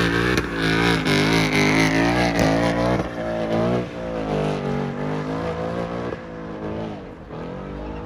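Car engine revving hard in a burnout, its pitch rising and falling again and again over a hiss of spinning tyres, growing quieter over the last couple of seconds.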